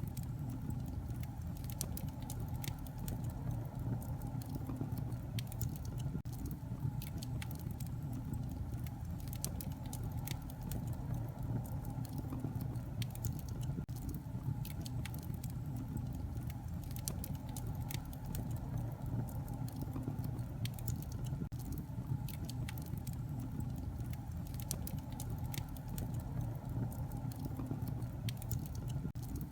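Wood fire in a fireplace crackling steadily, with frequent sharp pops and snaps over a low steady rumble of flame.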